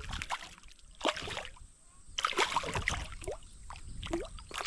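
Water splashing and sloshing around a kayak, with irregular knocks and rattles.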